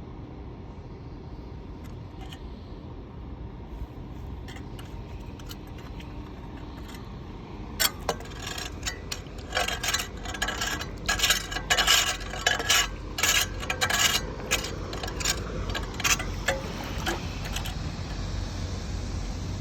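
Metal clinking and scraping: a quick, irregular run of sharp knocks starting about eight seconds in and lasting some ten seconds, over a low steady rumble.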